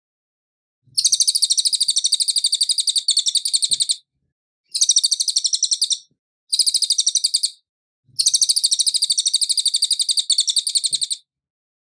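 Cililin songbird singing: four bouts of very fast, high, rattling trills of evenly repeated notes. The first and last bouts run about three seconds each, the middle two are shorter, with short silent gaps between.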